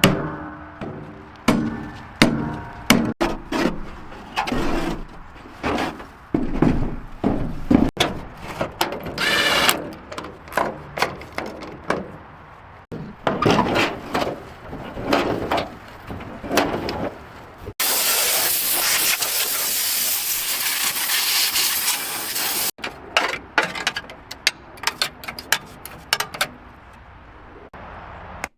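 Workshop tool sounds from car body restoration, cut together in short clips: many knocks and taps mixed with scraping strokes, then about five seconds of steady hissing noise, then more knocks.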